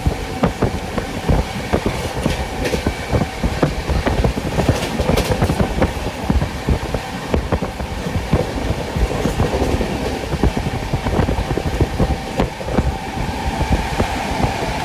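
Express passenger train running at speed: wheels clattering over the track, a dense run of knocks over a steady rumble, with a faint steady whine coming in about ten seconds in.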